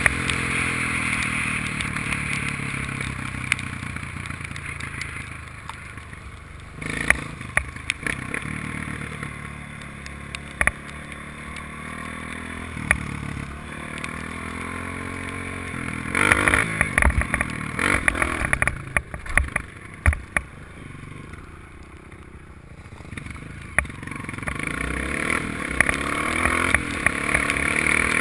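Honda dirt bike engine being ridden: the revs drop off over the first few seconds and it runs low and quieter through the middle, with scattered knocks and clatter. It picks up revs again near the end.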